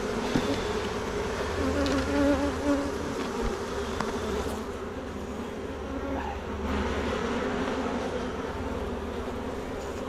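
Honeybees buzzing in a steady, many-voiced hum around an opened hive, with a few faint clicks.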